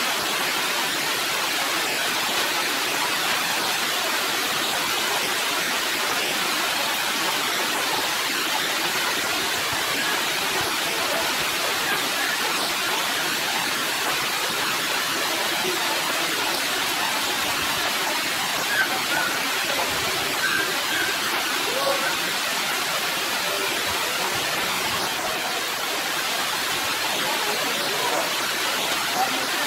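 Steady heavy rain falling on leaves and a wet concrete ledge, an even, unbroken hiss.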